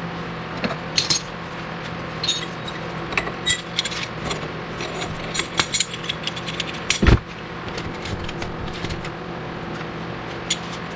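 Metal hand tools clicking and clinking against steel suspension parts while press tools are worked to separate the suspension joints, with a steady hum underneath and one loud knock about seven seconds in.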